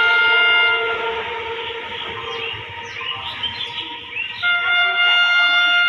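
Indian Railways locomotive air horn blowing a steady chord, which fades about a second in. It sounds again, longer, from about four and a half seconds. Between the two blasts the passing train rumbles and rattles.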